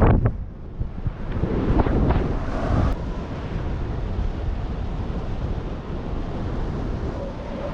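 Wind buffeting the microphone: a loud, steady rumble with no distinct tones, of the kind heard from a paraglider pilot's camera.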